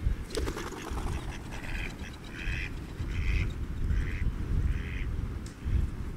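A waterbird calling: a run of five short duck-like calls, about one every three-quarters of a second, over wind rumble on the microphone. A brief rattle of rapid clicks comes about half a second in.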